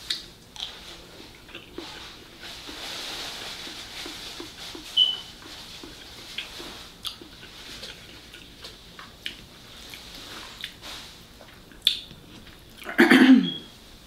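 Close-up mouth sounds of a person chewing a mouthful of fried rice, with small wet clicks and smacks throughout. A short, loud vocal sound comes near the end.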